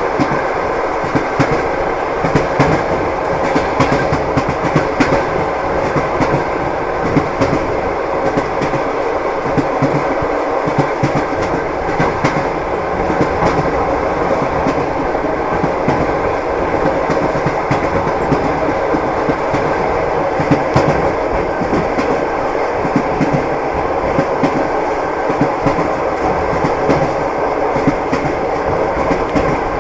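Train wheels clattering over rail joints, heard from inside a moving passenger carriage: a steady rumbling run with frequent short clacks.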